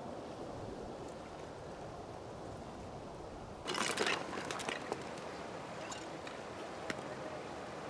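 Steady outdoor background noise, broken about three and a half seconds in by a short, loud rush of water, like a splash or pour, followed by a few light clicks.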